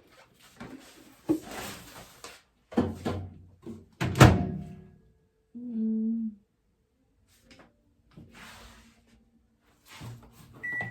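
Knocks and thunks from handling a microwave oven, the loudest a sharp thunk about four seconds in, like its door being shut. A short electronic keypad beep sounds near the end as it is set again after failing to start.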